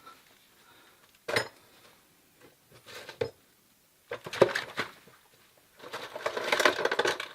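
Metal plumbing fittings and tools clinking and clattering as they are handled: a few separate knocks, then a denser run of rattling near the end.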